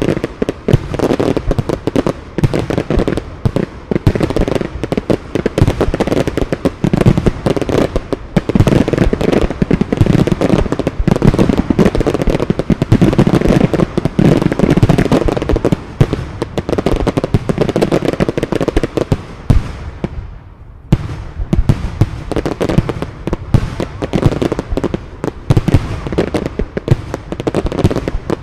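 Fireworks display: a dense, rapid string of exploding shells and bangs going on without a break, easing for a moment about twenty seconds in before picking up again.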